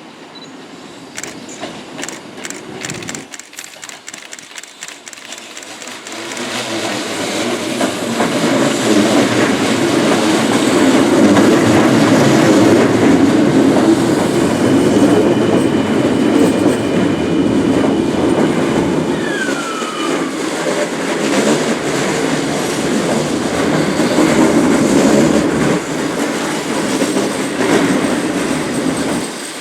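Sanyo Electric Railway 5000 series electric train pulling into a station: a run of clacks over the rail joints, then the loud rumble of the cars rolling past. A steady high squeal comes in about halfway through, and short falling squeals follow near the end as the train slows.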